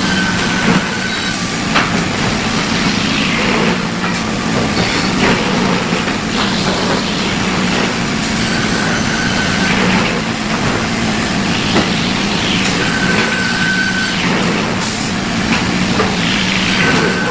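Sawmill machinery running with a constant low hum and scattered knocks and clatter. A brief high steady tone sounds several times.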